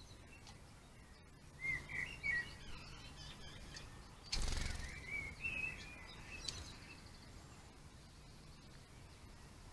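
Small garden birds chirping in short, high calls, in two clusters, with a brief rustling burst of noise between them, about four seconds in.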